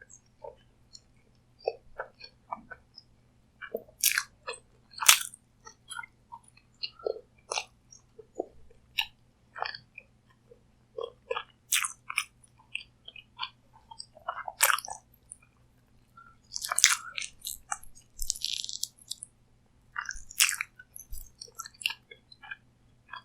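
Close-miked eating sounds of Indian food: irregular bites, chewing and crisp crackles, with a longer burst of crackly noise about two-thirds of the way through.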